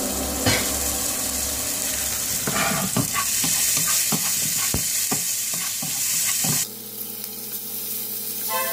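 Sliced onions sizzling in hot oil in a frying pan, with a wooden spatula knocking and scraping against the pan as they are stirred. The sizzling cuts off abruptly about two-thirds of the way in, leaving a quieter steady hum.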